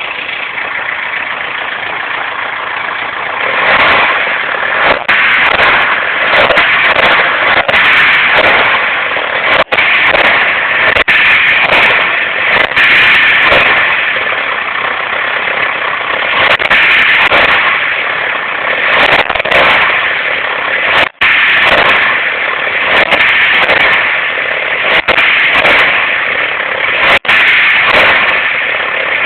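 Fiat Palio 1.6 16v four-cylinder engine revved again and again and let fall back toward idle, with a strange noise as the revs drop, which the owner suspects comes from a pulley or the belt tensioner.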